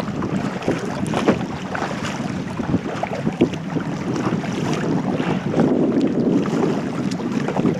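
Wind rumbling on the microphone over water splashing and lapping around a kayak, with frequent short, irregular splashes.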